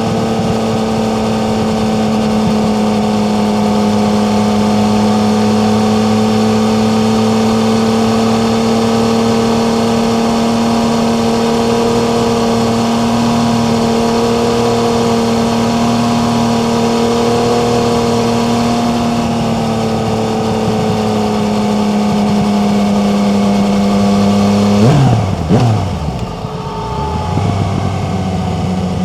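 Yamaha MT-09's three-cylinder engine running at steady revs while riding, with wind noise. About 25 seconds in, the revs drop sharply and then climb again, settling at a lower steady pitch.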